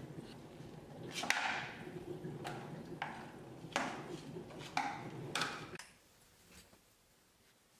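A series of about six light knocks or taps, each with a short ringing tail, spread over four seconds; the steady background hum drops away suddenly near the end.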